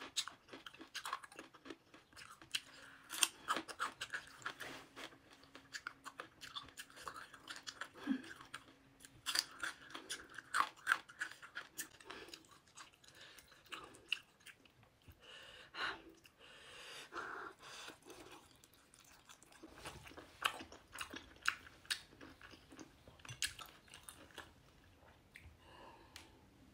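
A person chewing crunchy food with the mouth, crisp crunches coming irregularly and often: pieces of stir-fried green pepper from a veg chilli and spicy noodles.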